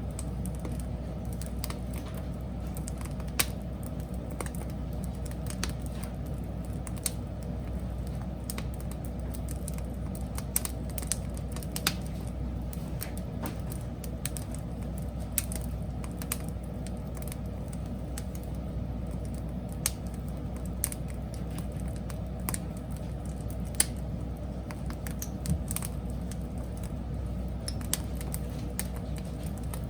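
Wood fire burning, with irregular sharp crackles and occasional louder pops over a steady low rumble.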